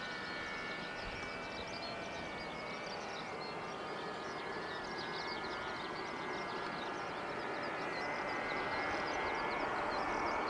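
ATR42-600 turboprop's Pratt & Whitney PW127M engines and propellers running on the landing approach: a steady hum with several whine tones that drift slightly in pitch, growing a little louder toward the end. Short high chirps run over it throughout.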